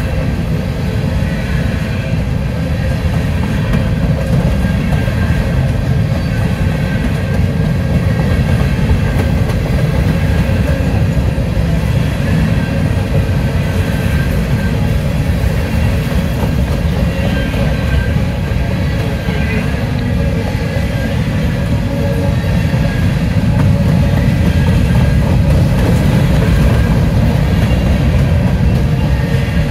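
CSX covered hopper cars rolling slowly past on the rails, their steel wheels making a steady, heavy rumble, with a faint steady high whine above it.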